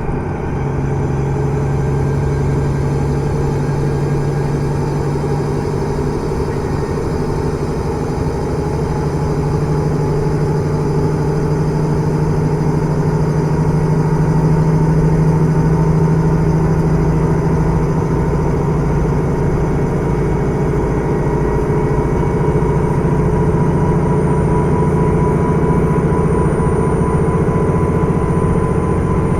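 Onboard running sound of a KiHa 110 series diesel railcar (KiHa 112-3) under way: steady diesel engine drone and wheel-on-rail noise heard from inside the car, with a faint whine slowly rising in pitch through the second half.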